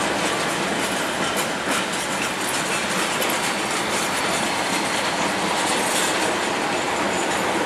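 Yellow track-maintenance works train rolling slowly past: a steady rumble of wagon wheels on the rails, with irregular clicks as the wheels cross rail joints.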